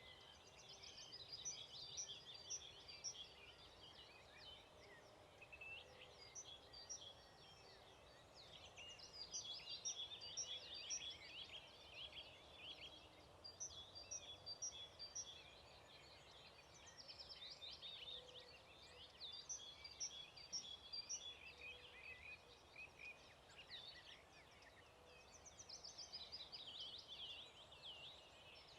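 Faint dawn chorus of several songbirds singing, with quick repeated chirping phrases overlapping and dropping off briefly a couple of times, over a steady low hiss.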